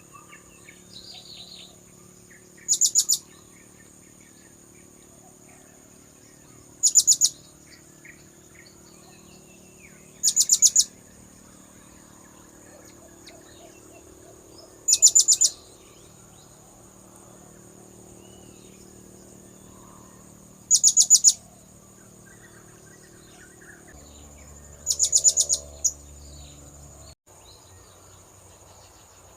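Blue-crowned hanging parrot (serindit) lure call: short bursts of rapid, shrill high chirps, repeated six times at roughly four-second intervals, over faint background birds and insects.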